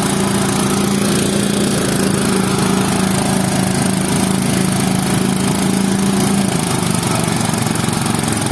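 A small engine running steadily, with a steady hum in its sound that drops away about six and a half seconds in.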